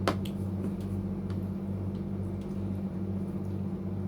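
A steady low electrical hum runs throughout. A single sharp clink of a utensil on a dish comes right at the start, followed by a few faint clicks.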